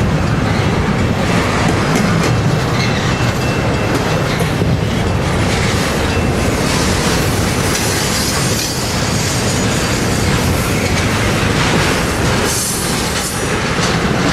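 Train cars rolling past on the rails: a loud, steady clatter of steel wheels over the track.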